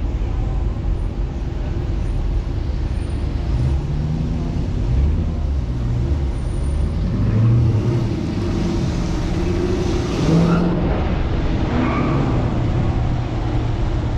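2015 Dodge Challenger R/T's 5.7-litre Hemi V8 running at low speed, its low exhaust note rising and falling gently with light throttle.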